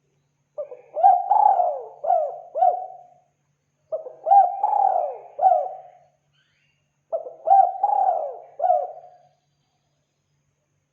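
Spotted dove cooing: three phrases about three seconds apart, each a short note, a longer coo and two quick coos.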